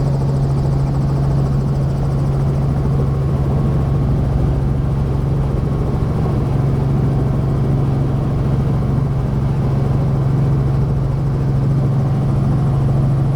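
Helicopter engine and rotor running steadily, heard from inside the cabin as a loud, unbroken low drone.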